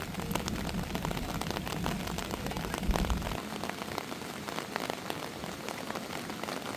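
Heavy rain falling, a dense patter of countless drops, with a low rumble underneath that stops about three and a half seconds in.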